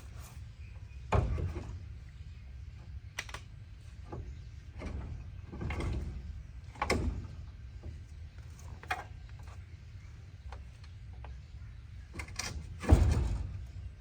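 A series of separate knocks and clunks, about six of them, the loudest near the end, over a steady low rumble.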